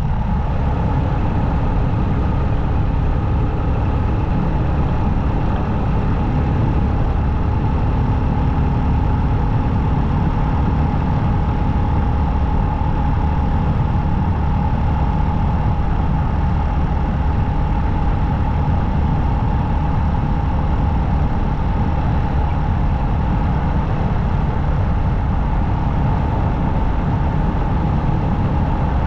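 Motorcycle engine running at a steady cruise, its drone holding an even pitch throughout.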